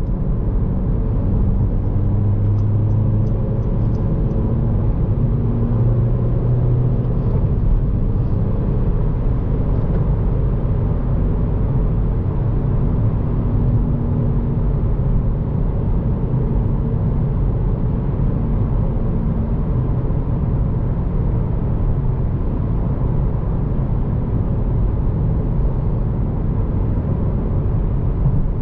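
2014 Honda Civic Si's 2.4-litre four-cylinder engine running under way, with steady low road rumble; the engine note shifts a few times in the first half, then holds steady.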